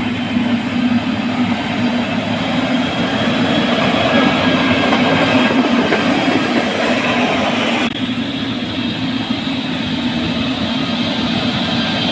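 Heavy road-construction machinery running: a loud, steady, rumbling mechanical din that changes abruptly about eight seconds in.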